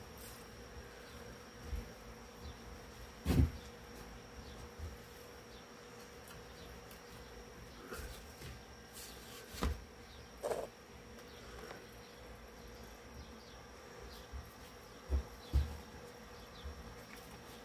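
A faint, steady hum holding two thin tones, with a few short knocks and handling noises scattered through; the loudest knocks come about three seconds in and about ten seconds in.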